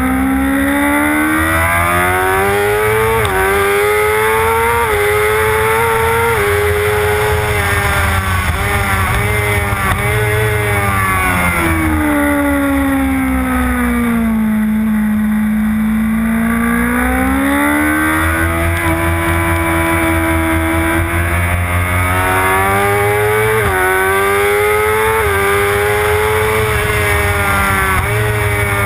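Motorcycle engine at full track speed, revving hard and dropping back in pitch at each upshift in the first few seconds. Around the middle it eases off and falls to a low pitch through a corner, then climbs smoothly again, with another run of quick upshifts near the end.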